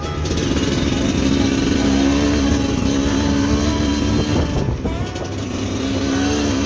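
Motorcycle engine running under throttle, steady, with a brief easing off about two thirds of the way through.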